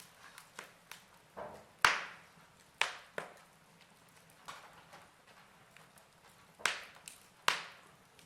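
Wood fire crackling: scattered sharp pops and snaps over a soft hiss. Two louder pops come about two and three seconds in, and two more close together near the end.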